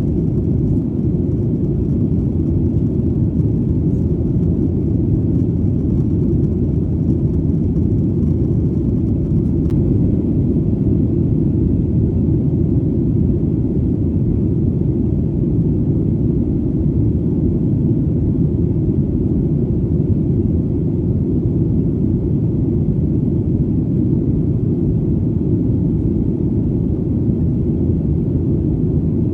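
Airplane engine noise heard in flight: a steady, loud, low rumble that does not change in pitch or level.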